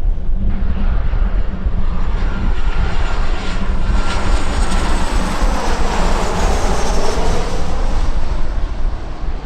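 A jet airliner passing close by, its engines making a swelling noise with a thin whine that slowly falls in pitch as it goes past. A steady low rumble of wind on the microphone runs underneath.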